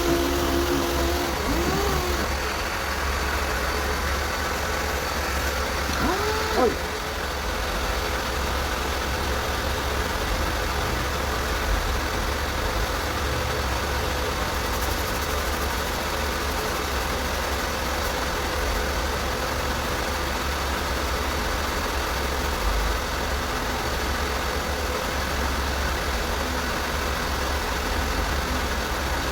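A motor or engine running steadily, with a constant low hum.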